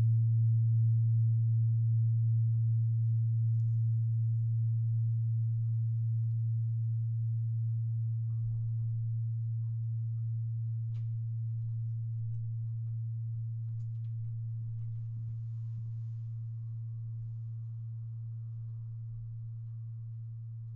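A low singing bowl tone ringing out, one sustained note with faint overtones that slowly dies away, wavering slightly as it fades.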